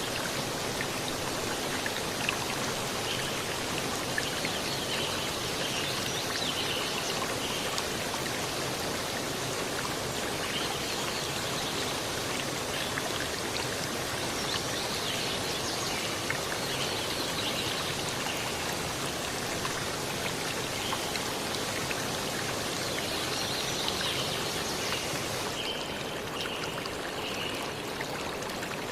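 Steady rush of a stream or river flowing, with faint short high chirps now and then.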